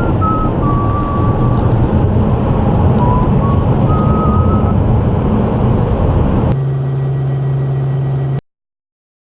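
Vehicle engine noise with a dense rumble. About six and a half seconds in it changes to a steadier, lower engine hum. It cuts off suddenly about a second and a half later.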